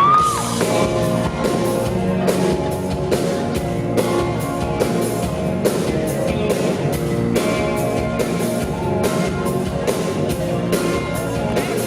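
Live band playing an instrumental song intro, with drums keeping a steady beat under guitar.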